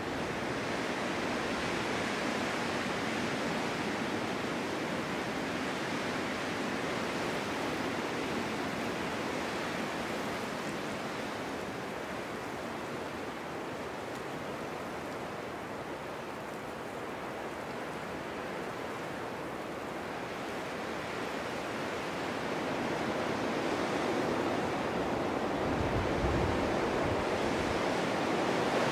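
Snowstorm wind blowing steadily with a rushing noise. It eases for a while in the middle and builds again toward the end, with a brief low rumble near the end.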